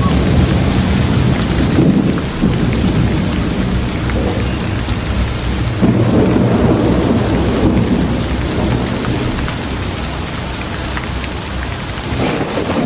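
Steady rain falling, with a deep low rumble underneath it that swells about six seconds in.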